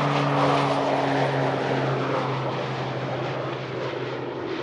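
Aircraft engine noise from an aeroplane passing on the runway, a steady hum whose low tones drift slightly down in pitch and grow a little quieter as it moves away.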